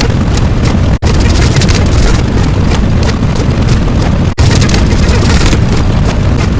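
Loud, continuous rumbling noise with a heavy low end from sound-effect clips, broken by two abrupt cuts, about a second in and just past four seconds, where one clip gives way to the next.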